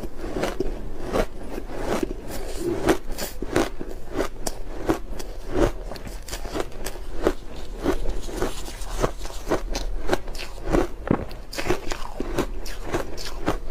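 Ice being bitten and chewed with continuous crunching, several crisp cracks a second.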